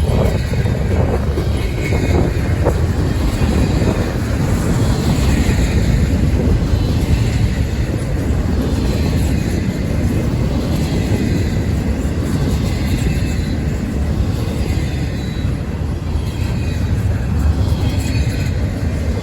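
Freight train rolling past, a steady loud rumble of railcar wheels on the rails.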